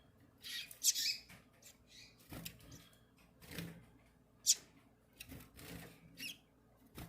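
A bird's short, high-pitched squeaky calls, given irregularly about eight times: the mother bird calling to her chick.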